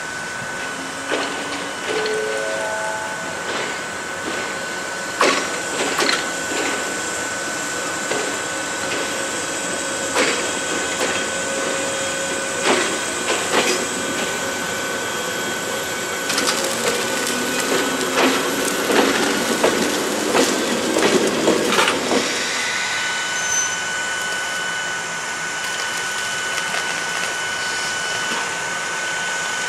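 Steady equipment hum with a thin high whine from electric railcars standing in a rail yard, with scattered clanks and knocks. A cluster of clanks from about 16 to 22 seconds in fits an electric train rolling slowly over the yard's rail joints and points.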